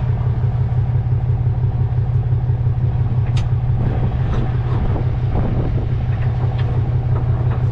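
A truck engine running steadily with a low, constant hum, with a few short knocks or clanks about midway.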